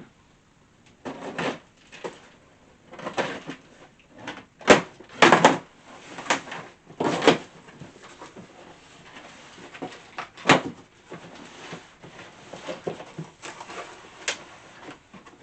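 Cardboard shipping box being cut open with a box cutter and its flaps handled: an irregular run of short scraping rips, with a couple of sharp knocks.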